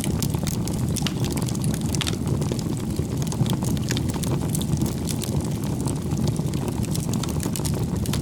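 Bonfire burning: a steady low rumble of flame with frequent small crackles and pops of burning wood.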